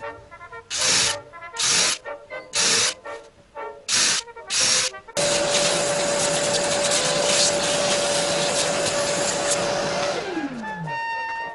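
An electric power tool in a woodshop: about five short bursts of hissing noise, then the motor runs steadily with a whine for about five seconds, is switched off near the end, and winds down with falling pitch. Music plays underneath.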